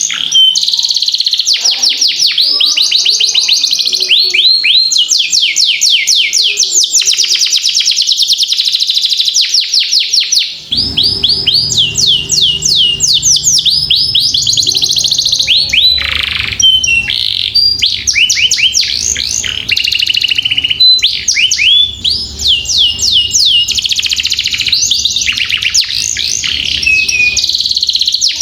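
Domestic canary singing a long, unbroken song of fast rolling trills: rapid runs of high notes, each sweeping downward, shifting from one trill to the next without pause.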